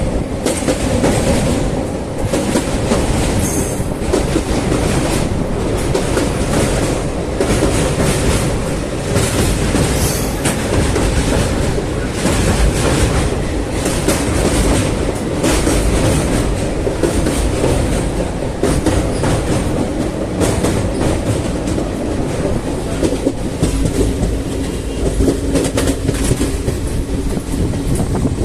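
Passenger train running along the track, heard from on board: a steady rumble with the repeated clickety-clack of the wheels over rail joints.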